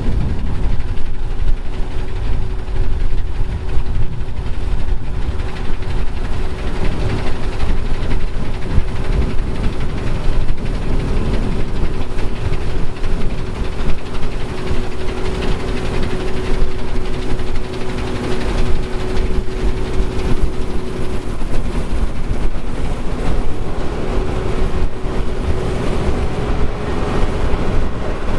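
Heavy farm machinery engine running steadily, with a constant hum and a deep low rumble throughout.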